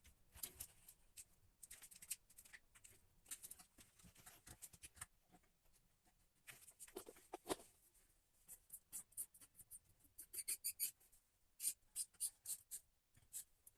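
Faint clicking and scraping of a plastic bidet fitting being handled and screwed onto the toilet's water supply line, with a quicker run of sharper clicks near the end.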